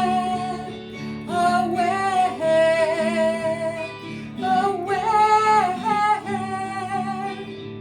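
Music: an acoustic guitar accompanying a woman singing several long held notes.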